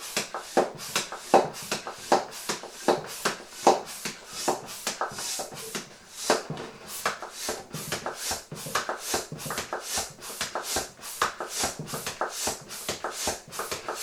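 Crinkly plastic being handled: a rapid, irregular run of rustles and crackles as a PVC balloon and its packaging are turned over and unfolded in the hands.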